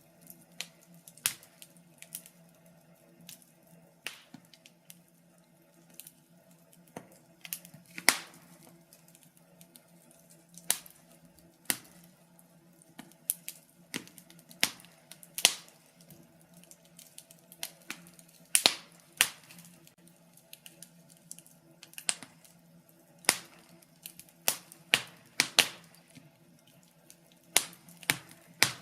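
Wood fire burning in a fireplace, crackling with irregular sharp pops and snaps, one or two a second, over a faint steady low hum.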